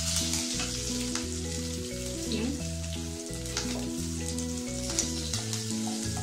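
Oil sizzling in a kadai as a tempering of curry leaves, chillies, dals and hing is stirred, with a few scrapes of the wooden spatula. Background music with steady sustained notes plays over the sizzle.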